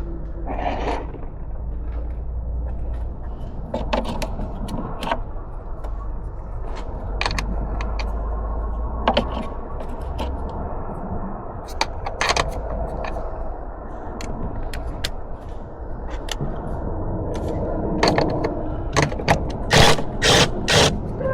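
Hand work on metal parts: scattered clicks, clanks and scrapes at irregular intervals over a low rumble that fades about halfway through, with a run of louder, sharper knocks near the end.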